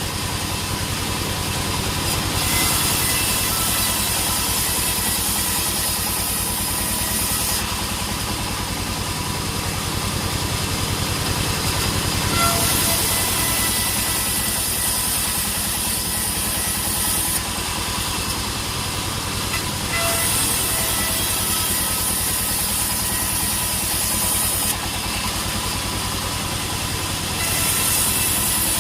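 Sawmill machinery running steadily: an engine hum with a high hiss that switches on and off in runs of about five seconds.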